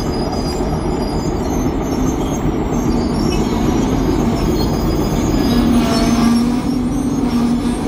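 Train running on rails: a steady rumble and rattle, with a low steady tone that grows louder in the second half.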